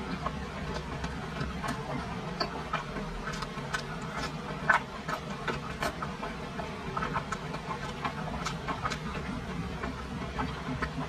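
Close-miked chewing of soft, saucy braised meat: irregular wet mouth clicks and smacks, one louder smack near the middle, over a steady low hum.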